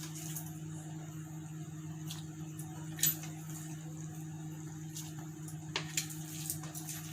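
A few soft clicks and taps of a spoon against a clay kadai as mashed elephant yam is added to the simmering gravy, the loudest about three seconds in and a cluster near six seconds, over a steady low hum.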